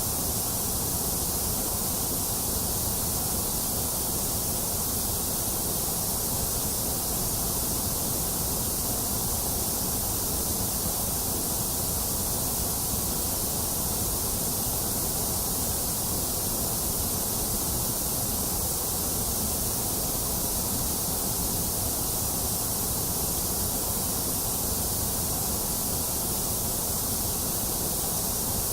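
Steady white noise played as a baby-soothing sound: an even, unbroken hiss with no change in level, bright in the high end with a thinner middle.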